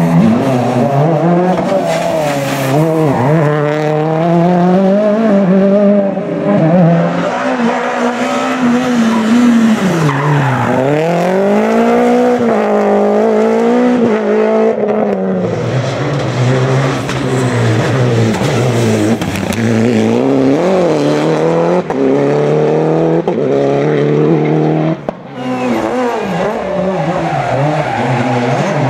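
Rally car engine revving hard, its pitch climbing and dropping over and over through gear changes and corners, with a brief lift off the throttle near the end.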